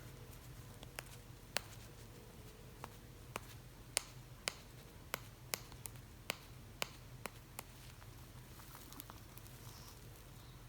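Cape parrot preening, with about a dozen sharp, irregular clicks of its beak working through its feathers over several seconds before they stop.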